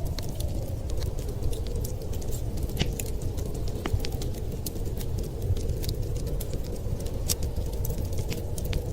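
Wood fire crackling with frequent irregular sharp pops, over a steady low rush of blizzard wind.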